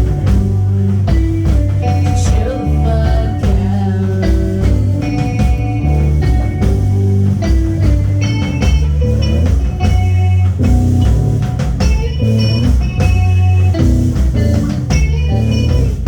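A rock band playing live and loud, with guitar and organ over bass and drums.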